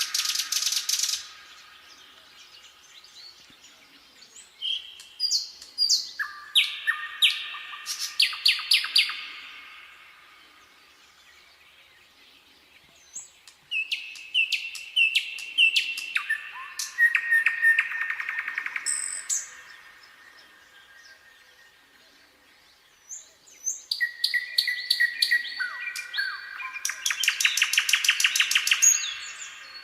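Nightingale singing: loud phrases of rapidly repeated notes and whistles, each phrase several seconds long, with pauses of a few seconds between them. One phrase is ending as the sound begins, and three more follow.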